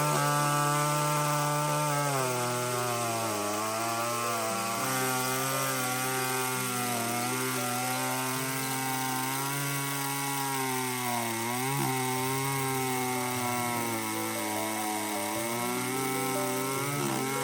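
A small engine running continuously, its pitch drifting slowly up and down, with a couple of quick dips in speed.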